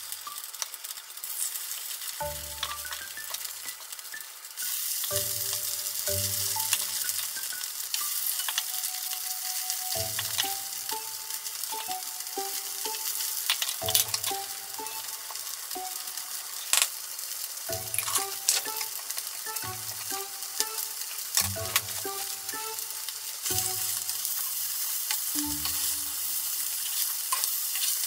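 Spoonfuls of chopped chicken breast and shiso mixture sizzling in hot oil in a frying pan, the sizzle growing louder a few seconds in as more patties go into the pan. Sharp light clicks come from wooden spoons knocking the steel mixing bowl and the pan.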